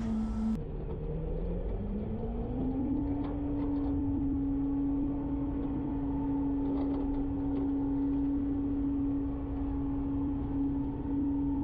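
Garbage truck engine speeding up about two seconds in, then holding a steady raised speed with a low rumble, as when it drives the hydraulic packer through a compaction cycle.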